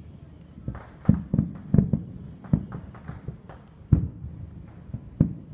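Aerial firework shells bursting: a run of about eight low bangs at an uneven pace, the loudest about four seconds in.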